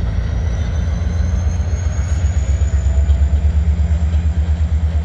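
Freight train of orange gondola cars behind an EMD SD40 diesel locomotive rolling through a road crossing: a loud, steady low rumble with a fast, even pulsing beat from the passing cars.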